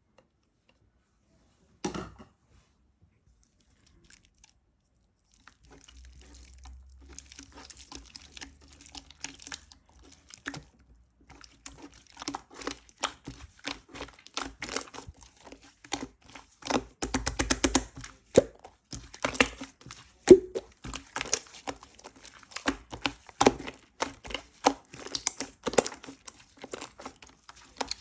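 Close-up food-preparation handling sounds from working with strawberries and whipped cream: a single click, then a long, busy run of quick taps, clicks, crinkling and soft squishy noises that grows louder after the first few seconds.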